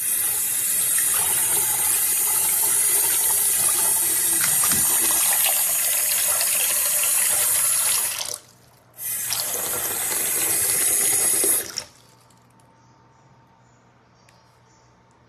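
Waterfall-spout single-lever basin mixer tap running full into a bathroom sink, shut off about eight seconds in, turned back on a second later, and shut off again at about twelve seconds.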